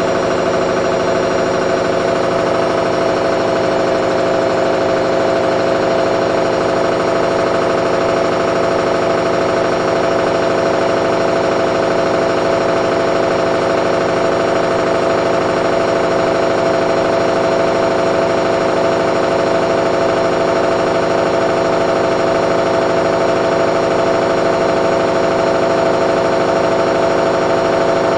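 Candy front-loading washing machine in its final spin at about 800 rpm: a loud, steady high whine and rumble of the drum and motor at full spin speed.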